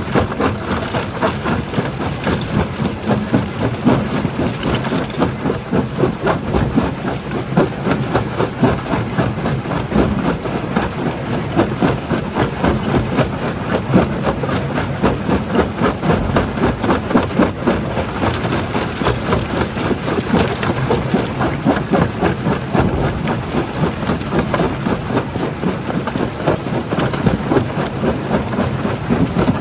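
Rock jaw crusher running, a steady engine drone under a dense, continuous clatter of rock being broken.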